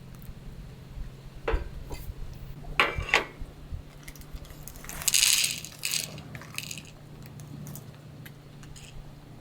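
A few light clicks and clinks of small objects being handled, with a louder brief rustling scrape about five seconds in, over a low steady hum.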